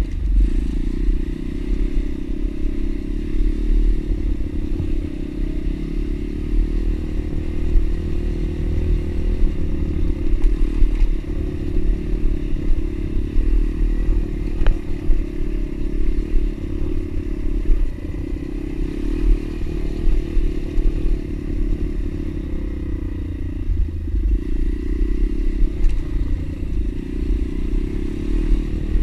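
Pit bike's single-cylinder engine running steadily under way, with a heavy, uneven low rumble.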